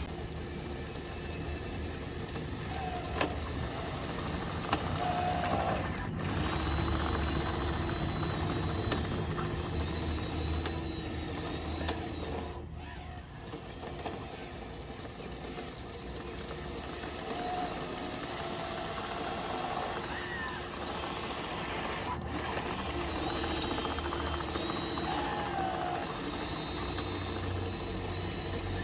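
Small electric motors and gearboxes of RC construction machinery running, a high whine that starts and stops several times with a few short rises and falls in pitch as the machines work.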